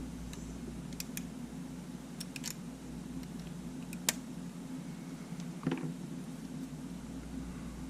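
Scattered small clicks and taps of tools and plastic parts being handled while a camera is taken apart, the sharpest click about four seconds in and a short scrape soon after, over a steady low hum.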